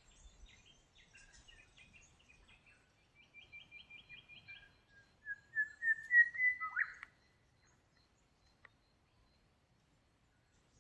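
Wild birds singing: scattered chirps, then a quick run of about eight short notes, then one louder series of whistled notes rising slightly in pitch that ends abruptly about seven seconds in. After that it is nearly quiet, with one faint click.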